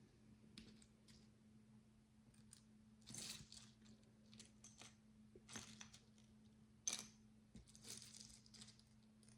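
Faint handling of micro bricks: small plastic clicks and rustling as tiny bricks are sorted and pressed together, with the sharpest click about seven seconds in, over a faint steady hum.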